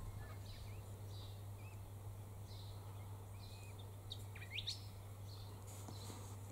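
Faint bird chirps repeating about twice a second, with a quick, sharp whistled call about four seconds in, over a steady low hum.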